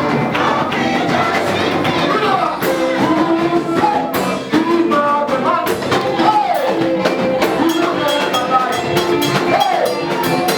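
Gospel praise music: a singer over a band with drum kit, at a steady beat.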